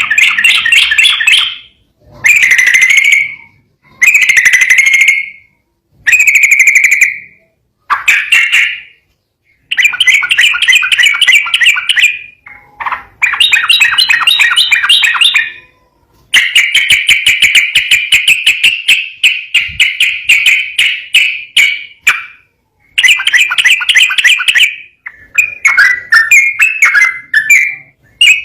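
Sooty-headed bulbul (trucukan) singing loudly in phrases of fast repeated notes separated by brief pauses. Short phrases come first; later phrases run for several seconds as a rapid rolling trill (ropel).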